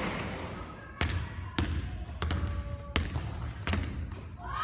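Basketball bouncing hard on a court floor, about half a dozen sharp, irregularly spaced bounces.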